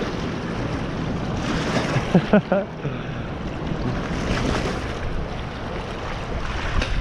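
Steady rushing outdoor noise of wind buffeting the microphone over running water, with a short pitched sound about two seconds in.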